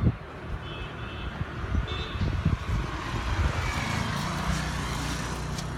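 Road traffic running, with a vehicle passing about four seconds in and two short high beeps about a second and two seconds in.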